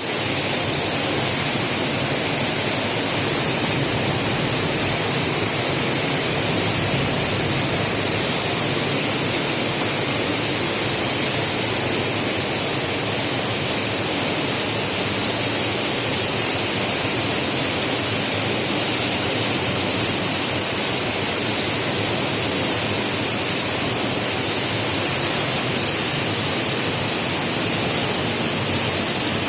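Heavy rain pouring down in a steady downpour, a dense even hiss with no let-up.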